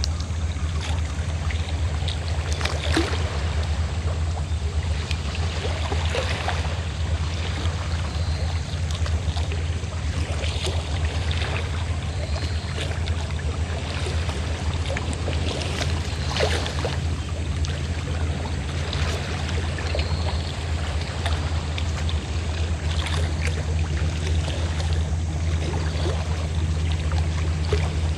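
Fishing boat's engine running steadily with a low, even hum, under water lapping and splashing against the boat now and then.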